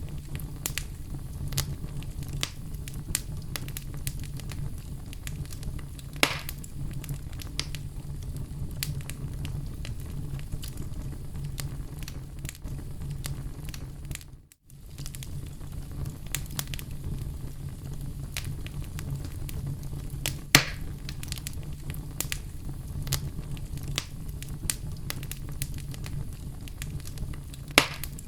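Oak logs burning in a fireplace: a steady low rumble of flames with frequent sharp crackles and pops, a few of them much louder. The sound drops out for a split second about halfway through.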